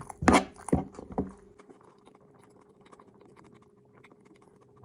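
Close-up eating sounds: three loud, sharp mouth smacks or chews in the first second and a half, then faint clicking over a low steady hum.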